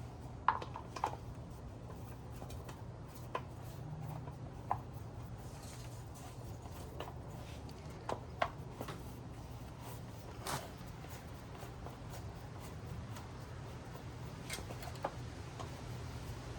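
Scattered light metallic clicks and taps of washers and bolts being handled and fitted by hand, at irregular intervals, over a steady low hum.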